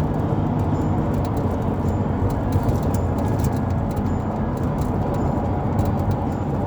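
Steady low rumble of road and engine noise inside a moving vehicle's cabin, with scattered faint clicks.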